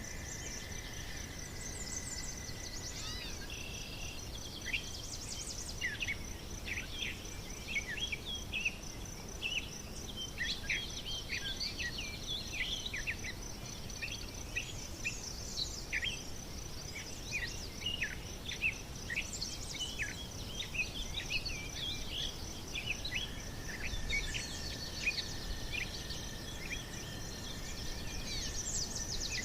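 Small birds chirping and calling in many short, quick notes over a steady high-pitched insect trill, like crickets, with a low hiss of outdoor ambience beneath.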